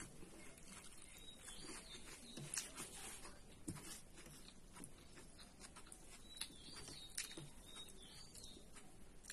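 Faint scattered clicks and taps, with a few short high bird chirps in the second half.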